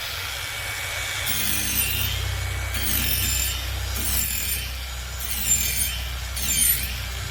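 Angle grinder running with its disc worked against a log in short repeated passes, rasping away the wood. There are five or six passes, one about every second, over the steady run of the motor.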